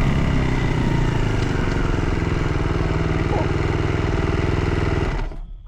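Dirt bike engine running steadily, then cutting off suddenly about five seconds in.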